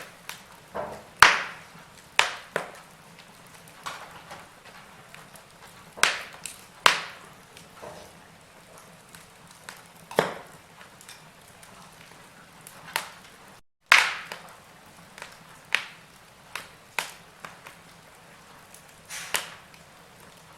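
Wood fire of burning logs crackling, with irregular sharp pops of varying loudness over a faint low background. The sound cuts out for a split second about two-thirds of the way through, just before one of the loudest pops.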